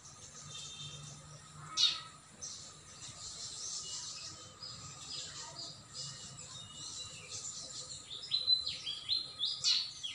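Birds chirping: many short high chirps, thickest mid-way, with a quick run of falling chirps near the end and a short louder sound about two seconds in.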